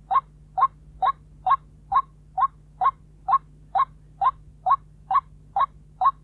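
White-breasted waterhen repeating a single short call note at an even pace, about two notes a second. A faint steady low hum runs underneath.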